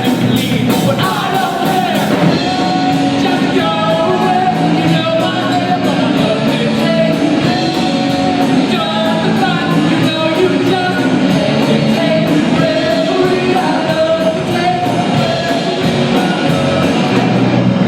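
Rock band playing live with a lead singer, steady drum beat under guitar and vocals.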